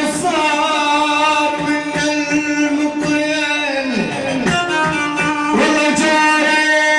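Middle Eastern band music: an instrumental passage of held, gliding melody notes with rich overtones.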